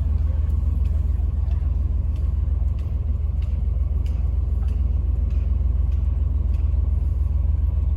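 A vehicle engine running with a steady low rumble, with faint light ticks repeating about every half-second.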